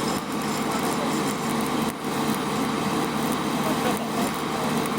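Arc welding in progress: a steady, even crackle over the constant drone of a running engine.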